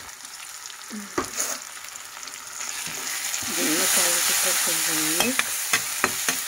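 Onion-tomato masala with ground spices sizzling in hot oil in a kadhai, stirred with a spatula that clicks and scrapes against the pan. The sizzle grows louder about halfway through.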